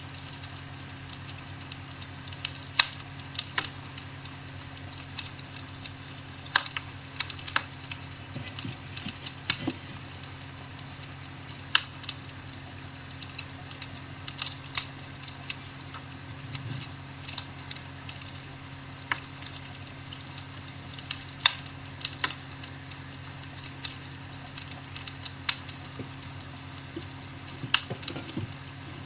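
Recorded wood-fire crackling from a fireplace sound app played back inside an electric fireplace: irregular sharp cracks and pops, some single and some in quick clusters, over a steady low hum.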